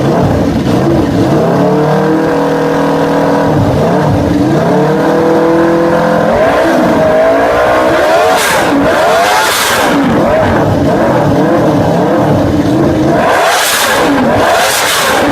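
A V4 superbike engine running loud at high revs, its pitch climbing and dropping again and again as it revs up and eases off.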